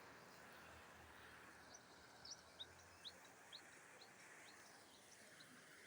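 Faint bird calls: a series of about nine short, high chirps, roughly two a second, over a very quiet background.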